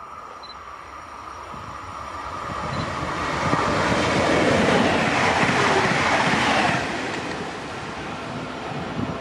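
Electric regional multiple-unit train passing at speed: a rushing of wheels on rails that builds from about two seconds in, peaks about four seconds in with a faint falling pitch, and drops off sharply about seven seconds in as it goes by.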